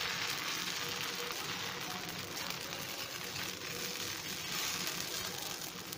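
Thin dosa batter sizzling steadily on a hot tawa just after being spread with the ladle.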